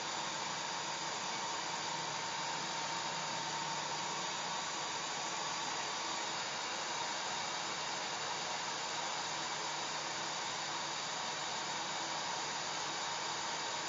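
Hair dryer running steadily: an even, unbroken rush of air with a faint steady whine from the motor.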